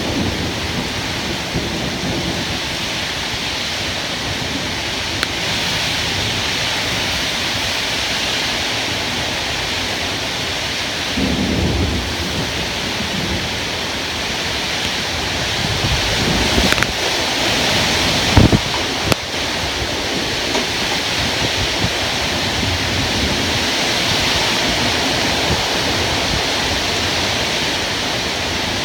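Thunderstorm: steady heavy rain with thunder rumbling a little before the middle and again about two-thirds of the way through, the second time loudest.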